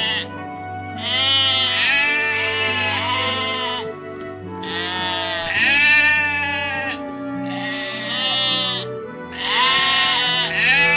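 Sheep bleating: several long, wavering bleats a second or two apart, over background music with sustained notes.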